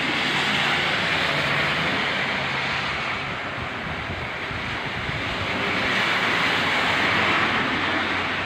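Strong storm wind gusting with rain, a steady rushing noise that swells twice.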